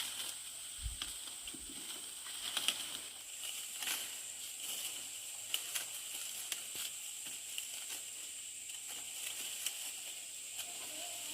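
Dry corn leaves and husks rustling and crackling, with sharp snaps as corn ears are broken off the stalks by hand, over a steady high-pitched hiss.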